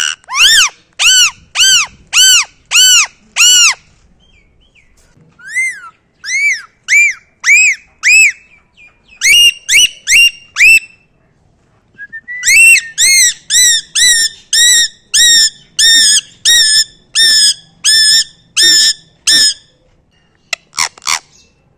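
Parrot calling in a long series of short, loud, arched calls, about two a second, in three runs broken by brief pauses around four and eleven seconds in.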